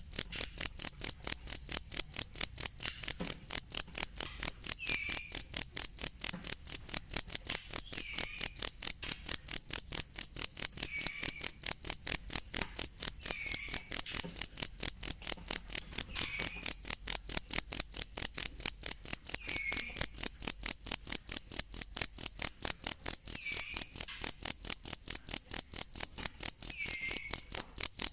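Cricket chirping: a high, steady note pulsed in a fast, even rhythm of several chirps a second.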